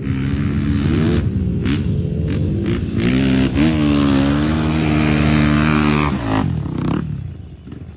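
An engine running steadily, its pitch rising briefly a few times, then stopping about six and a half seconds in.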